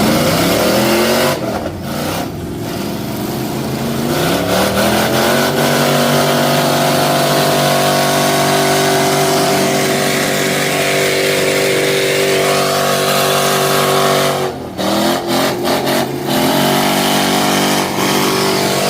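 Mud truck's engine revving hard: it climbs in pitch over the first few seconds and holds at high revs. It drops off briefly near the end and then climbs again.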